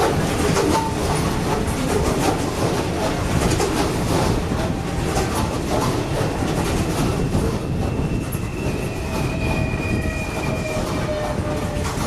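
A rail vehicle running along the track, its wheels clattering over rail joints, with a thin wheel squeal rising in from about seven seconds in and fading out near the end.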